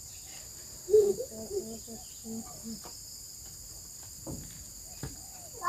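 Steady high buzzing chorus of crickets and other insects. About a second in there is a sharp knock, followed by faint muffled voices, and two more knocks come near the end.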